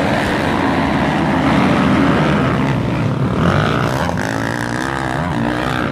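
Motocross motorcycle engines running and revving, their pitch rising and falling.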